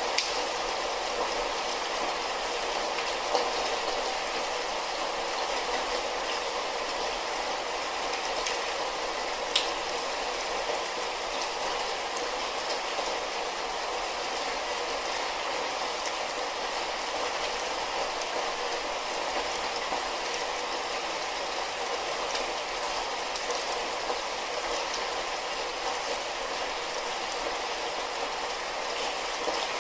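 Light rain falling steadily, an even hiss with a few sharper single drop taps.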